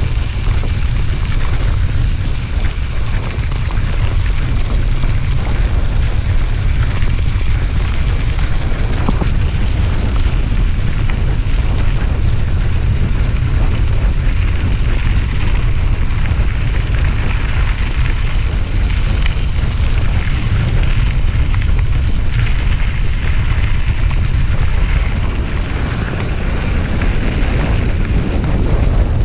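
Wind buffeting the microphone of a camera carried on a moving bicycle: a loud, steady rumble with a hiss above it and no let-up.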